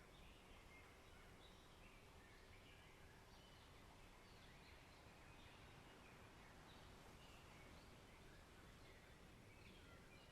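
Faint forest ambience: many small, scattered bird chirps over a steady low hiss.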